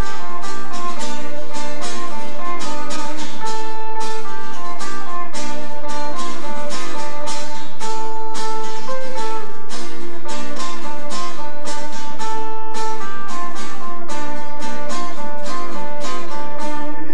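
Acoustic guitar strummed in a steady rhythm, about three strums a second, playing chords with a melody line on top.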